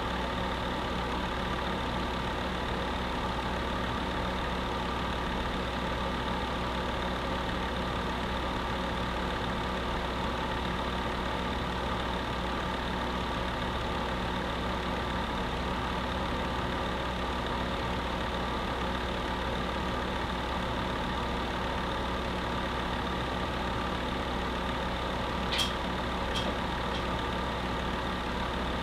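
Electric space heater running steadily: an even fan rush with a constant hum. A few light clicks near the end.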